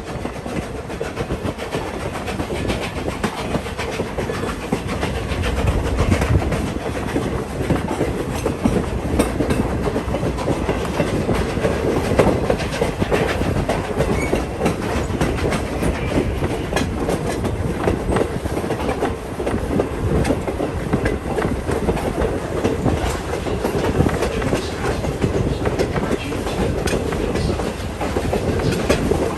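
Steady rumble and clickety-clack of a passenger railroad coach's wheels rolling over the track at speed, heard from on board.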